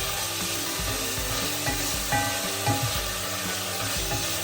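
Beef browning in hot oil in a pot, a steady sizzle, with background music playing over it.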